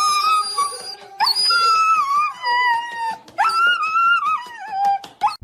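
Husky howling in three long drawn-out calls, each jumping up at the start and sliding down in pitch.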